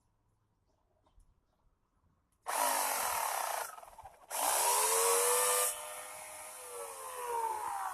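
Chainsaw fitted as a hedge trimmer starting up suddenly about two and a half seconds in, running in two loud bursts with its pitch rising and falling as it cuts through hedge branches, then running on more quietly. The drive sprocket is damaged, which makes the chainsaw noisy.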